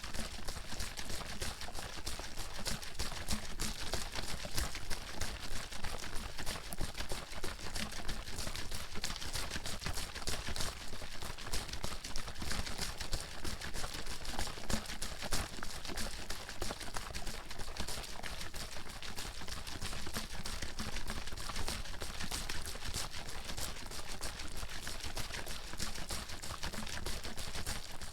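Water sloshing in a bottle that is shaken fast and without pause, in a quick run of splashing strokes.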